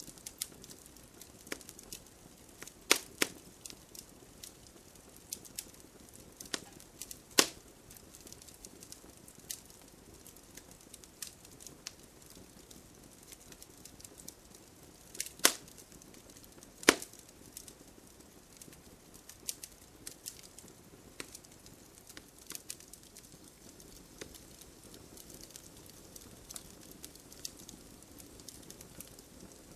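Wood fire crackling, with frequent small ticks and a few loud sharp pops from the burning logs over a low steady hiss.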